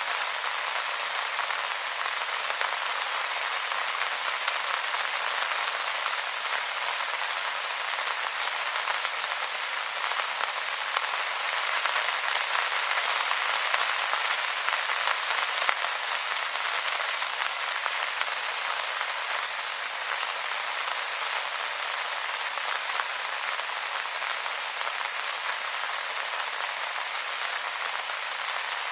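Steady rain falling on wet leaves, an even hiss of many small drops with no single drop standing out.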